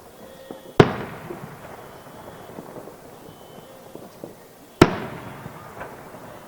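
Two aerial firework shells bursting, the first about a second in and the second about four seconds later, each a single loud bang followed by a rolling echo that dies away. Faint small pops and crackles between them.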